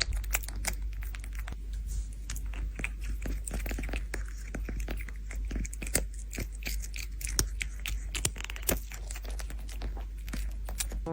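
Close-up crunching and chewing: a dense run of irregular, crisp crackles and clicks over a low steady hum.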